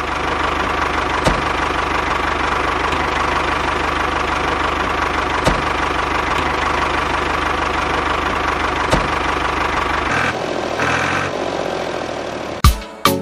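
An engine idling steadily with an even knocking beat, changing about ten seconds in, then a few sharp knocks near the end.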